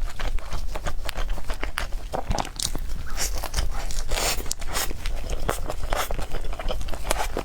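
Close-miked eating sounds: bites and chewing of cake, with many sharp, irregular mouth clicks.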